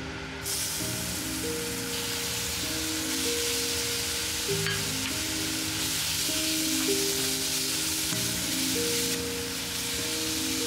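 Minced garlic hitting hot oil in a nonstick wok, sizzling up sharply about half a second in, then frying steadily while sliced shiitake mushrooms are stirred through it with a spatula. Soft background music with long held notes plays under it.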